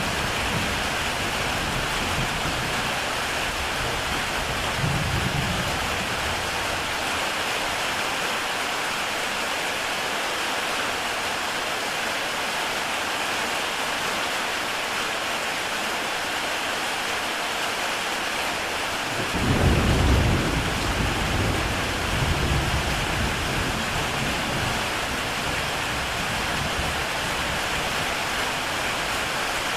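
Heavy rain on a tile roof, a steady dense hiss. About twenty seconds in, a low rumble of thunder swells for a few seconds, with a shorter, fainter rumble near five seconds in.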